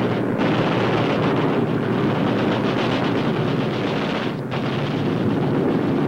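Rapid, continuous machine-gun fire over a dense roar, the sound of bombers strafing an airfield, with a brief dip just past four seconds in.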